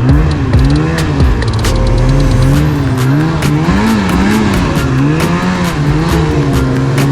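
Snowmobile engine running under a constantly varied throttle, its pitch dropping sharply at the start, then rising and falling about once a second before it settles into a steady note near the end.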